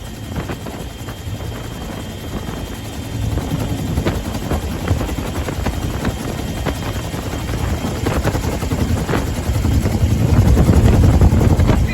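UH-1H Huey helicopter running, its two-bladed main rotor beating rapidly over the whine of the turbine engine, growing louder in the last few seconds.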